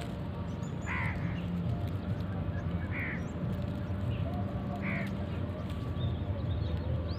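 A bird giving three short, harsh calls about two seconds apart, over a steady low rumble.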